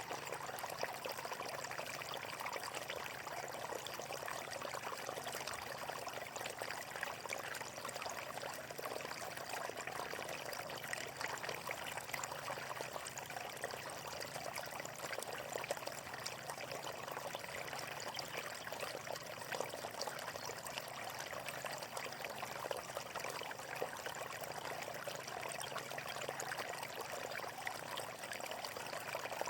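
Flowing water running steadily, with a continuous rush full of small splashes and gurgles and no pauses.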